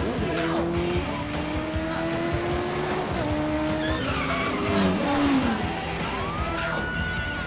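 Car engine revving and tyres squealing during a film car chase, with long sliding pitches that rise and fall, over a background music score.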